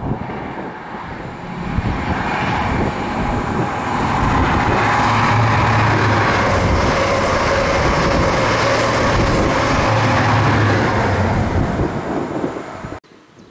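A passenger train passing close on the line, a loud, steady rumble of wheels on rail with a low hum that swells twice. The sound builds over the first few seconds, holds, then fades and cuts off suddenly near the end.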